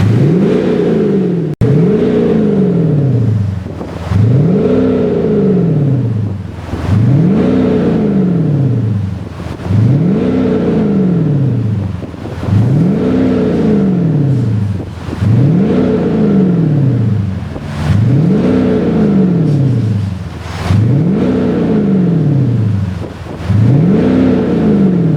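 Synthetic AMG GT-style V8 exhaust note from an active sound generator (virtual exhaust) fitted to a BMW G30 550d diesel, revved again and again: about a dozen even rev blips, one every two seconds, each pitch rising sharply and falling back.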